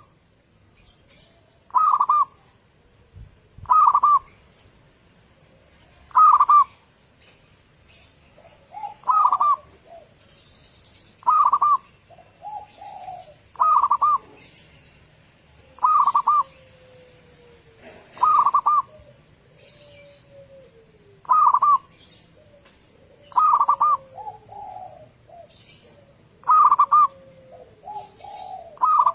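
Zebra dove (perkutut) song: a loud call repeating every two to three seconds, with quieter falling coos between the calls and faint high chirps of small birds behind.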